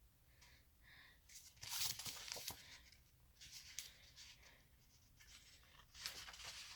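Paper rustling in short bursts, the sound of an instruction booklet's pages being handled and turned, loudest about two seconds in and again near the end.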